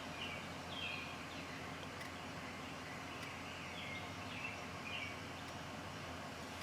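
Faint bird chirps, short falling notes repeating every half second to a second, over a steady low background hiss.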